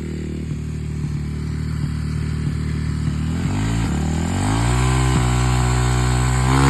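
Dirt bike engine running, then revving up about three and a half seconds in, holding a higher pitch and climbing again near the end.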